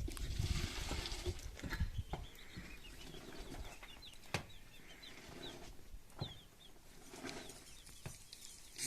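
Bird chirps: many short, high, falling notes repeated over several seconds, with scattered knocks and a low rumble in the first two seconds.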